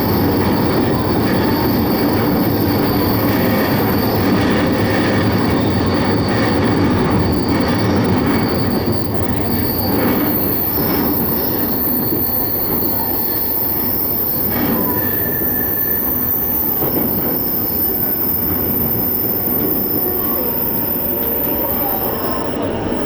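Keiyo Line electric train running along the track at speed, heard from inside the passenger car: a steady rumble of wheels on rail with faint whining tones rising and fading above it.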